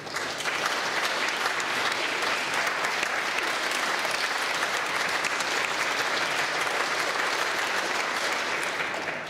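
Audience applauding steadily in a hall, the clapping dying away near the end.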